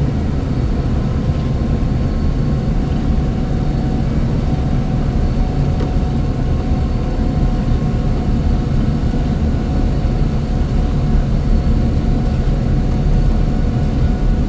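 Heavy snow-removal machinery running steadily: a loud, unbroken low engine drone with a faint steady whine above it.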